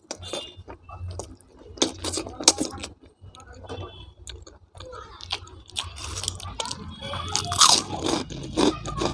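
Close-up mouth sounds of eating: chewing with a run of sharp crunches, loudest about three quarters of the way through.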